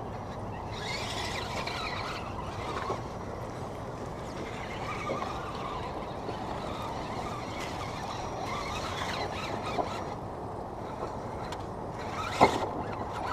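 Radio-controlled scale crawler trucks driving over rough ground, their electric motors and gears whining and rising and falling in pitch, with a sharp knock near the end.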